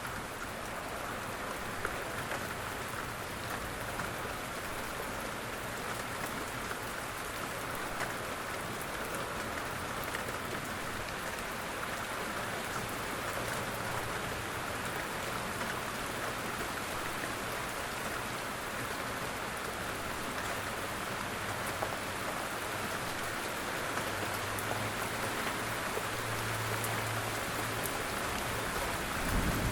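Steady rain falling, a soft even hiss with scattered drop ticks, over a faint low hum.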